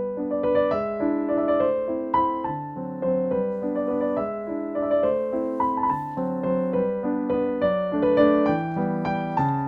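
Background piano music: a gentle melody over chords, with notes struck steadily several times a second.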